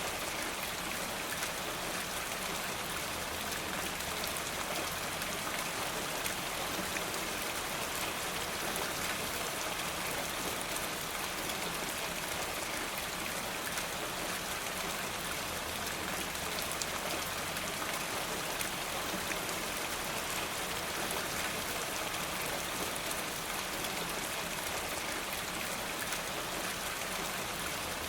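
Steady rain falling, an even hiss with a dense patter of fine drop ticks and no change in intensity.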